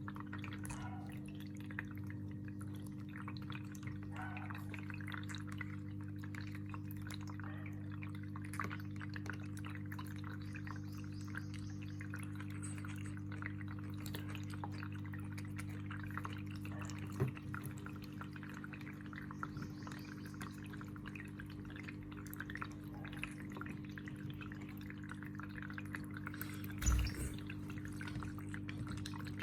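Water pouring and dripping into a bath for forpus parrotlets, with many small splashes. A steady low hum runs underneath, and there are two louder knocks, about halfway through and near the end.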